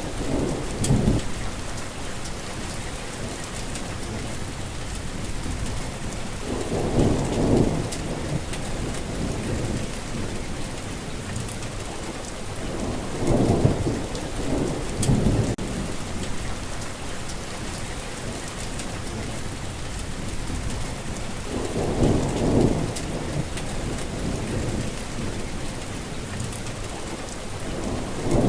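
Heavy rain falling steadily, with low rolls of thunder rumbling up every six to eight seconds, five times in all.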